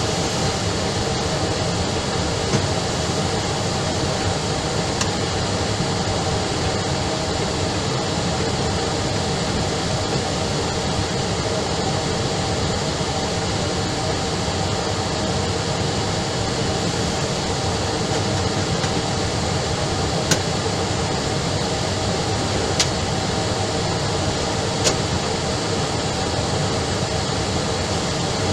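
Steady radio static hiss from an air-traffic-control receiver between transmissions, with a few single clicks.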